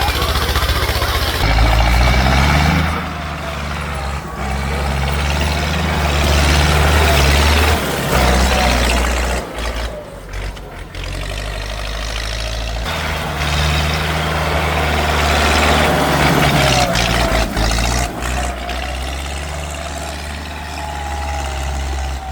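Tractor engine running and being revved up and down, its pitch rising a couple of seconds in. It drops away for a few seconds near the middle before running strongly again, with abrupt changes in the sound.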